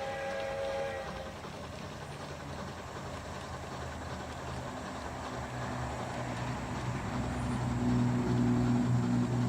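G scale three-truck Shay model locomotive running. A chime steam whistle from its sound system ends about a second in, then a steady running noise with a low hum that grows louder toward the end.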